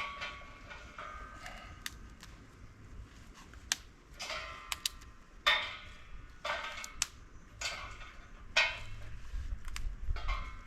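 Irregular knocks and clatters of hard objects being handled, about one every half second to a second, some with a brief metallic ring.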